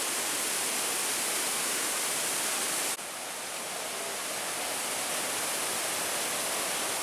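A large waterfall's steady rush of falling water. About three seconds in there is a sudden brief dip, after which the rush is slightly quieter.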